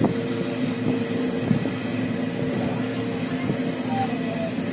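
A moving vehicle's steady running noise with a low, even hum.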